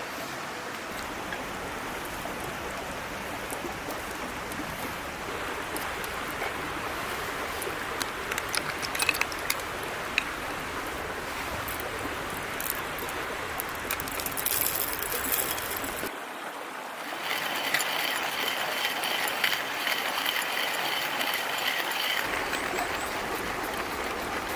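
A small mountain stream babbling steadily, with scattered sharp clicks in the middle stretch. About two thirds of the way through, the sound changes abruptly: the low rumble drops away and faint high tones come in over the water.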